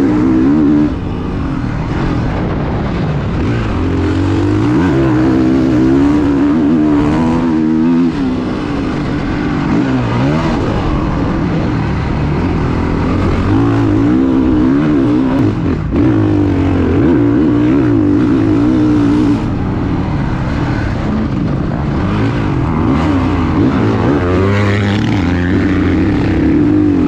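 Motocross dirt bike engine revving up and down as it is ridden around a track, its pitch repeatedly rising and falling with each throttle opening and shift.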